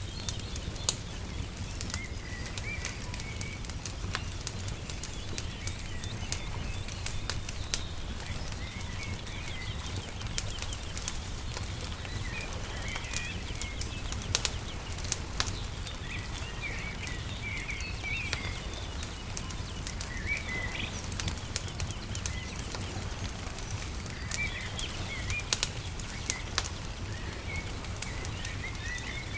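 Wood fire crackling with frequent small sharp pops, while small birds chirp in short twittering bursts every few seconds over a steady low rumble.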